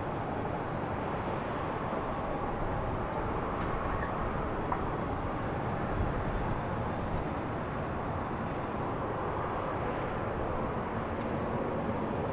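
Steady rushing noise of jet airliner engines at an airport, holding an even level with a faint whine running through it.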